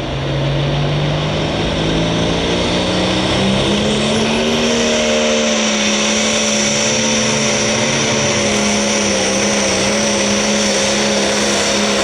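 International 1066 tractor's diesel engine under full load on a tractor pull. It climbs in pitch over the first few seconds, then holds a loud, steady high-rev note as it drags the weight sled down the track.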